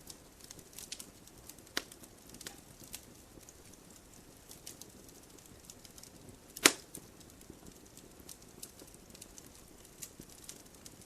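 Firewood burning in a wood stove, crackling with scattered irregular small ticks, a pop a little under two seconds in and one sharp, much louder snap about six and a half seconds in.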